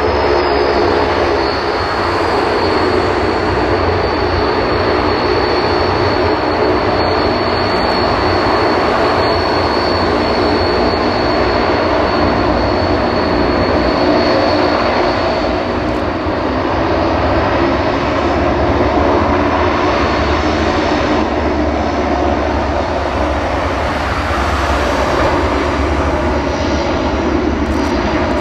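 Antonov An-12's four Ivchenko AI-20 turboprop engines running loud and steady: a dense propeller drone with a high turbine whine that fades out about halfway through.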